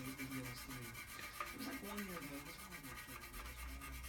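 Abrasive Scotch-Brite pad scrubbing back and forth over the aluminium crankcase of a Porsche 911 SC engine in quick, even strokes.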